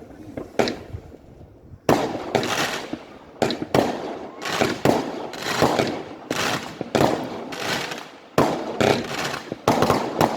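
Fireworks going off in quick succession: a string of sharp bangs, each trailing into crackle. There is a single bang near the start, then they come thick and fast from about two seconds in.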